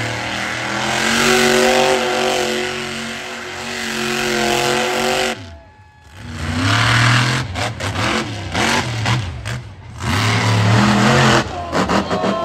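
Monster truck engine revving hard, its pitch rising and falling repeatedly, with a brief drop-out about five and a half seconds in before more quick throttle blips.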